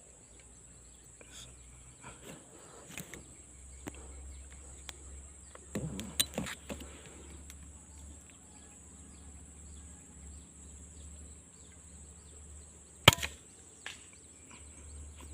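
A single sharp air rifle shot about 13 seconds in, over a steady high-pitched insect buzz and a low wind rumble, with a few faint knocks earlier.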